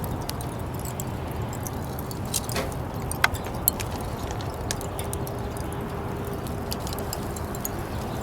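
Barbecue at a charcoal fire pit grill: scattered sharp clicks and light clinks over a steady low rumble, with two louder clicks a little past the middle.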